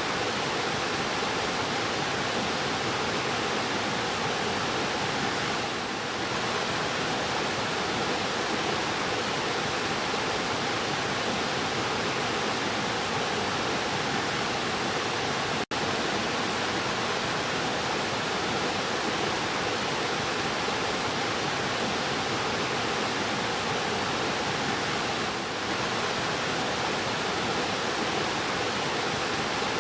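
Fast-flowing river rushing steadily in an even, unbroken wash of water noise. The sound cuts out for an instant about halfway through.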